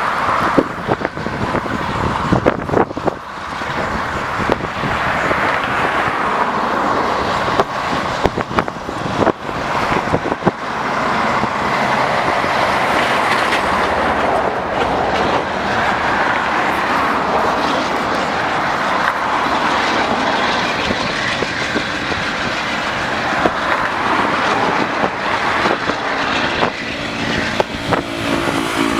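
Freight train wagons rolling past: a steady rumble of steel wheels on rail, with many irregular clicks and knocks as the wheels cross rail joints.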